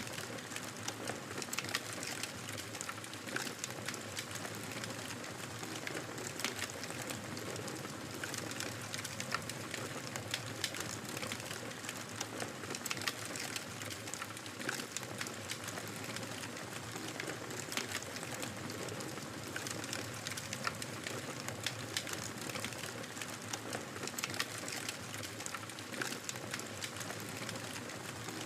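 Fire crackling in a fireplace: frequent small pops and snaps over a steady hiss.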